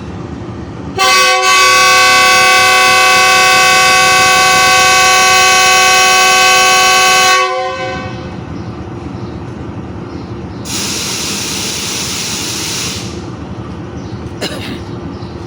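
A train horn blows one long, steady blast of about six and a half seconds, over a steady low rumble. A few seconds later there is a hiss lasting about two seconds.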